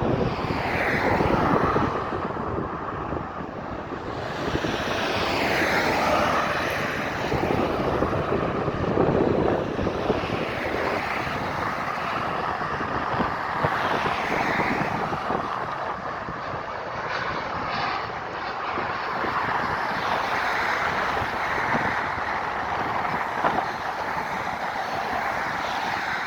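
Landing airplane's engines: a steady roar with a whine that rises and falls in pitch several times as the plane comes in.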